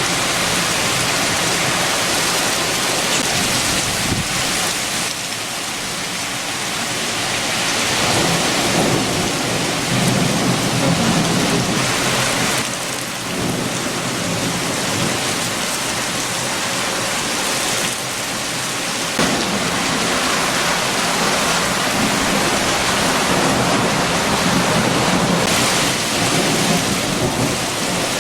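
Heavy rain falling with strong wind, a dense steady hiss that swells and eases in gusts, with low rumbling surges twice during the stretch.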